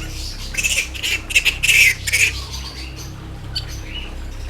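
A large bat giving a run of harsh screeching squawks while it is held and struggling, clustered from about half a second to two and a half seconds in, then fainter.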